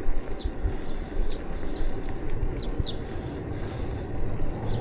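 Wind rumbling on the microphone and road noise of a bicycle being ridden, with short, high, falling chirps repeating at irregular intervals.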